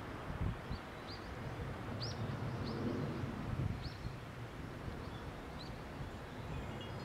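A bird giving a series of short, high, rising chirps, roughly one a second, over a steady low rumble of outdoor background noise.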